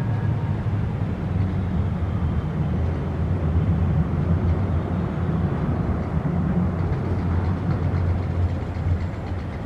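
Low, steady rumble of a heavy vehicle running close by, easing off slightly near the end.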